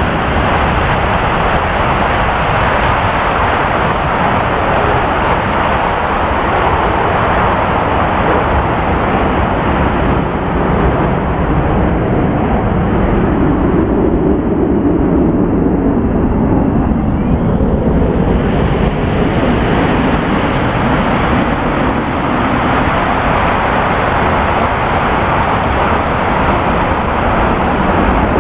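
F-15 Eagle fighter jet engines making a loud, continuous roar. About halfway through, the sound turns deeper for a few seconds.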